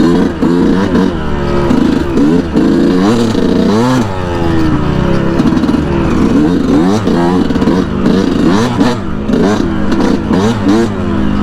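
2019 Yamaha YZ125's single-cylinder two-stroke engine under way, its revs climbing and dropping again and again as the throttle is worked.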